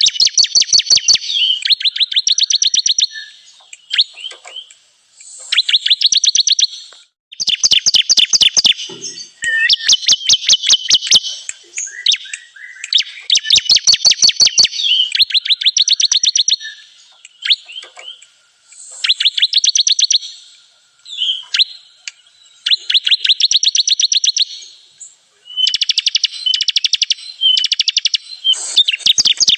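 Bar-winged prinia (ciblek kristal) singing: phrase after phrase of rapid, evenly spaced high notes, each run a second or two long, with short pauses between, some phrases stepping from a higher run to a lower one.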